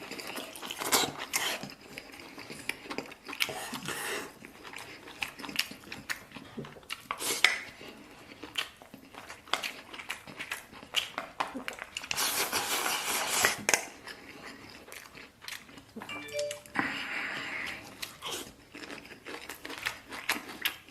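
Close-up chewing and eating of braised beef with rice: irregular wet mouth sounds and bites, with many short clicks scattered through, and a longer run of louder chewing about twelve seconds in.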